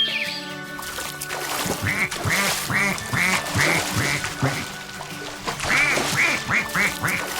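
A cartoon animal's run of short, quack-like calls, about three a second, with a brief pause about five seconds in, over steady background music.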